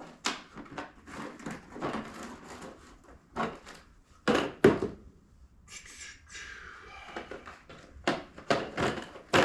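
Rummaging through tools: a string of knocks, clicks and clatter as tools and parts are picked up and moved, with a scraping, rustling stretch about six seconds in.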